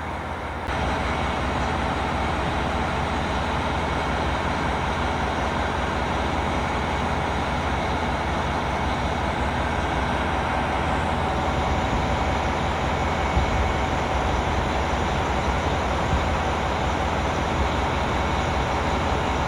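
Diesel railcar of a limited express train (KiHa 261 series) standing with its engines idling: a steady low hum under an even wash of noise.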